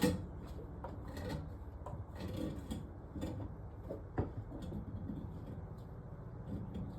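Scattered knocks, clicks and scraping from hands working at a clogged kitchen sink drain pipe, digging out caked grease residue; the sharpest knocks come right at the start and about four seconds in.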